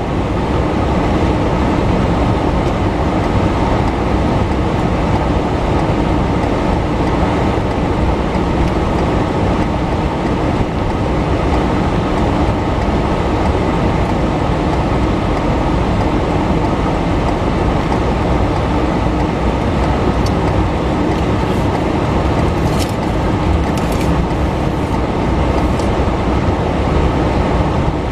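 Steady low rumble of a car driving, road and engine noise heard from inside the cabin, with a few faint clicks near the end.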